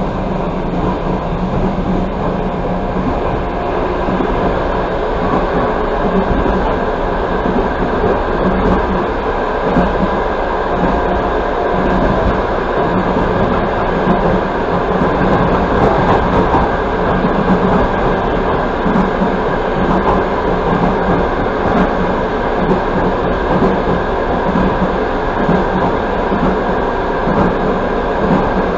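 Passenger train running at speed: a steady rumble of wheels on the rails, heard from inside the carriage.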